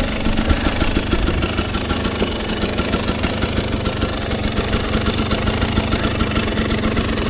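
Dirt bike engine idling steadily, a fast even beat of firing pulses.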